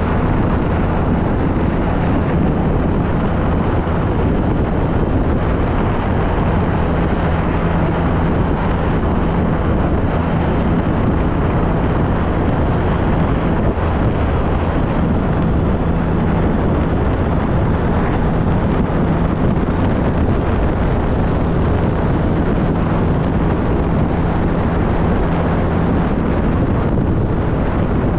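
2013 Triumph Trophy SE's three-cylinder engine running at a steady cruise, with wind rushing over the microphone.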